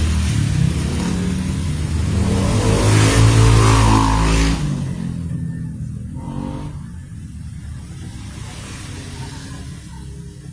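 A motor vehicle engine revving up, loudest about three to four seconds in, then dropping off suddenly and fading away.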